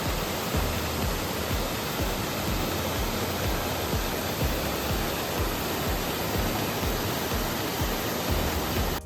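Waterfall: a steady, unbroken rush of falling water with a low rumble beneath it.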